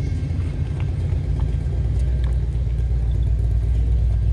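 A car engine running steadily with a low rumble that grows a little stronger partway through, with a few faint clicks.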